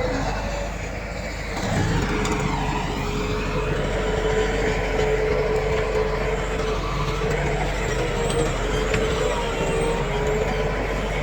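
Diesel engine of heavy earthmoving machinery running steadily with a constant tone. It eases off shortly after the start and picks up again about two seconds in.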